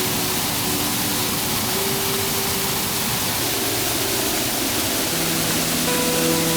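Steady rush of a waterfall: a loud, even hiss of falling water. Faint held tones lie underneath and shift in pitch every second or two.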